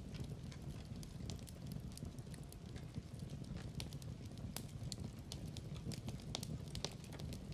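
Wood fire in a fireplace crackling: irregular sharp snaps and pops over a low, steady rumble.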